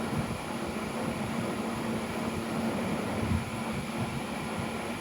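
Steady mechanical hum in the room, with a few faint low knocks from starter parts being handled on a workbench.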